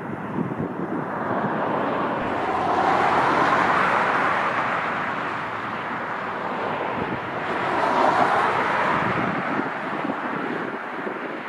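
Wind buffeting the microphone over the noise of jet aircraft, swelling twice, about three seconds in and again near eight seconds.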